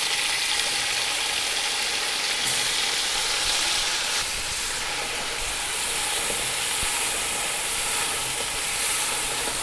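Fresh chopped tomatoes sizzling steadily in hot oil in an aluminium pressure cooker, stirred with a wooden spoon.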